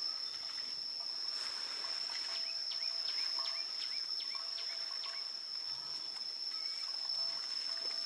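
Rural outdoor ambience: a steady high-pitched insect drone, with a bird giving a quick run of short rising chirps from about two to five seconds in, and a few softer held bird notes.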